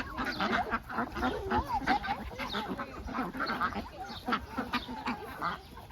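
Several ducks quacking, with many short calls overlapping in quick succession.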